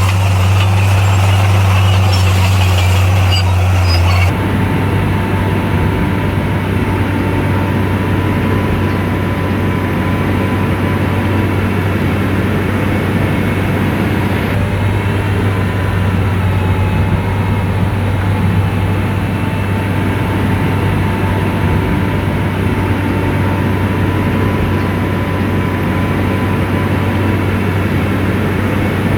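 Komatsu bulldozer's diesel engine running steadily under load, a deep drone with a faint whine above it. About four seconds in the sound changes abruptly, losing its higher hiss.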